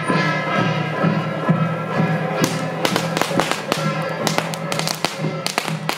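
Music with steady held notes, joined about two and a half seconds in by a rapid string of sharp cracks from firecrackers.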